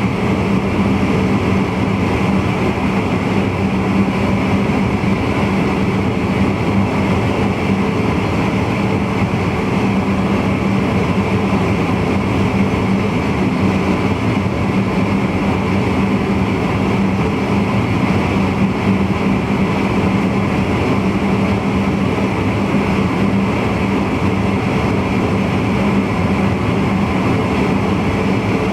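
Steady running noise of a VIRM double-deck electric intercity train, heard inside the driver's cab, with a constant low hum over an even rushing noise.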